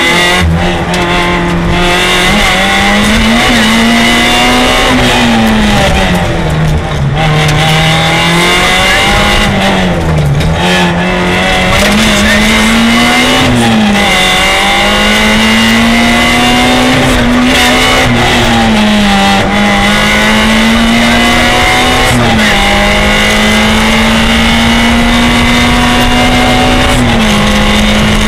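Peugeot 106 rally car's engine at high revs, heard from inside the cabin. The pitch climbs through each gear and drops sharply at the upshifts, several times, and twice sags and rises again as the car slows for a bend and accelerates out.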